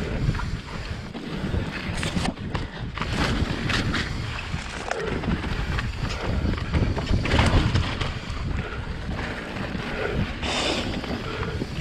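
A Devinci Troy 29er mountain bike ridden fast down a dirt singletrack trail, with wind rushing over the helmet camera's microphone, the tyres rumbling and the bike clattering with frequent knocks over roots and rocks.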